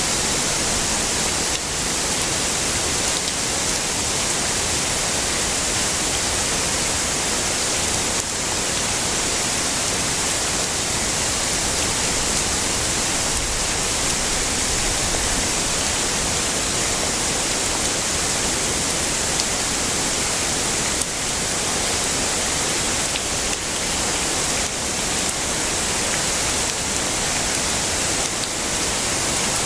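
Heavy rain falling steadily: a dense, even hiss, strongest in the high end, with no breaks.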